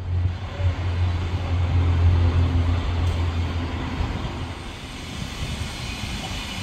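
Train sounds at a heritage railway station: a steady low rumble over a broad hiss, loudest in the first few seconds and easing after.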